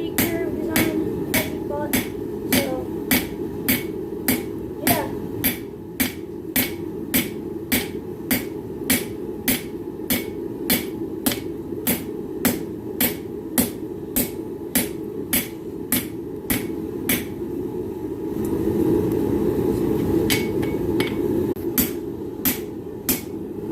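Hand hammer striking hot steel on an anvil, forging a railroad spike: steady blows about two a second, with a pause of a few seconds about two-thirds of the way through before the hammering resumes. A steady low rushing noise runs underneath and swells during the pause.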